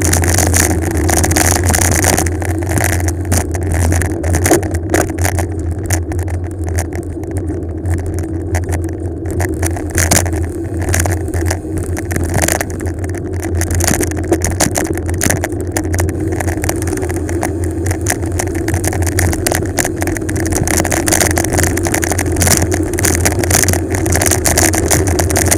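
Wind rumbling and buffeting on an action camera's microphone during a fast bicycle descent, with rushing road noise.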